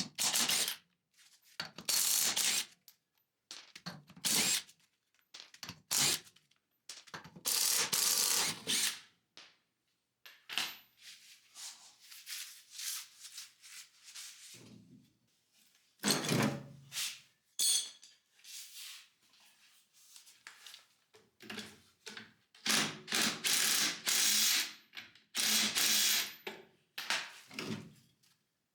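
Shop tools working on a 1956 VW Beetle's steel front beam and its fittings: a run of separate clanks, clicks and scraping bursts, each a second or so long, with short gaps between.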